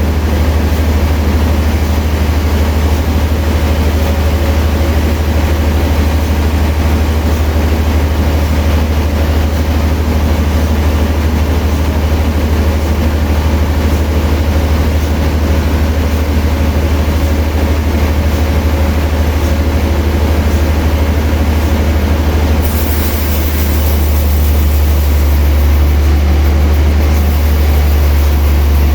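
Sawmill machinery running with a steady, heavy low drone. About 23 seconds in, it gets slightly louder and brighter.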